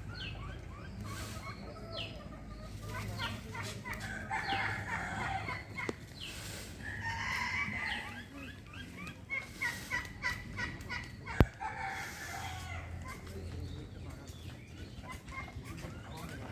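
Captive birds calling in an aviary: a mix of short chirps and clucking calls, with a quick run of repeated clucks about two-thirds of the way through. A single sharp click comes just after that run.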